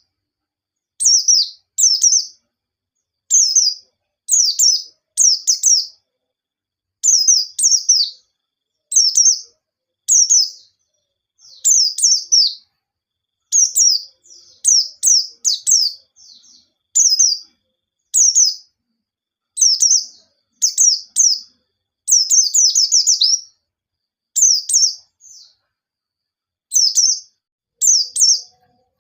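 White-eye (pleci) singing in short, high, sharp phrases, roughly one a second, with brief silences between them.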